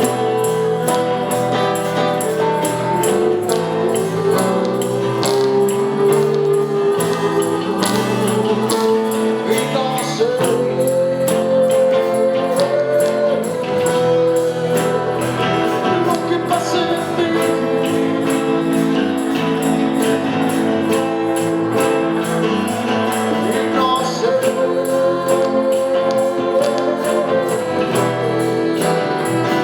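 Small live band playing a song, with guitars, bass and percussion. A hand percussion instrument keeps a steady beat of about two hits a second, under a sustained melodic line that glides in pitch.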